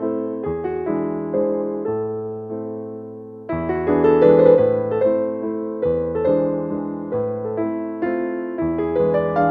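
Slow, gentle piano music: chords and single notes struck about twice a second and left to ring. A phrase fades away, and a new, louder one begins about three and a half seconds in.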